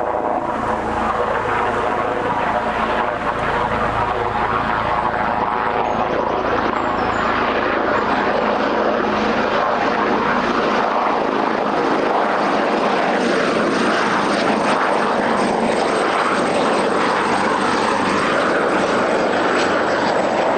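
AgustaWestland AW139 twin-turbine helicopter arriving, its rotor and turbine noise loud and steady throughout, with a thin high whine running through the sound from about six seconds in.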